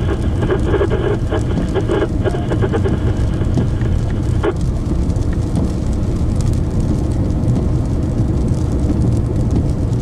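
Steady road and engine rumble inside a moving vehicle, with a rougher, crackly layer on top that stops about four and a half seconds in.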